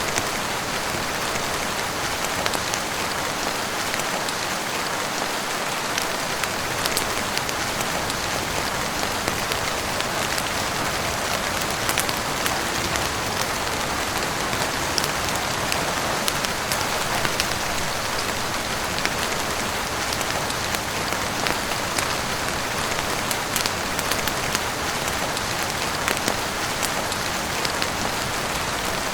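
Heavy rain falling steadily on a roof, a dense even hiss dotted with scattered sharp ticks and crackles.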